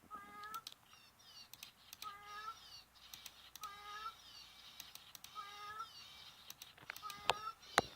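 A cat and a gray catbird calling back and forth: short mewing calls repeat about every second and a half, with higher chirping bird notes in between. Sharp clicks are scattered through, with a louder pair near the end.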